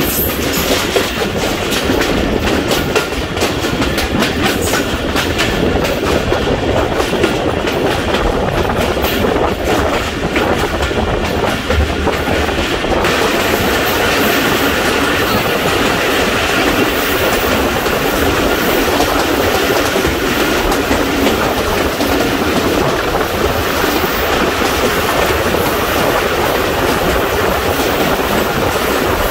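Passenger train running along the track: a steady rumble with rapid clickety-clack of wheels over rail joints. The clicking thins out about thirteen seconds in, leaving a steadier hiss and rumble.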